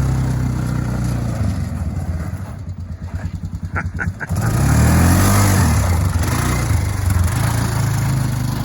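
Freshly rebuilt Polaris engine running. Between about one and a half and four seconds in it drops to a lumpy, pulsing idle, then it is revved up and back down, and it settles to a steady run.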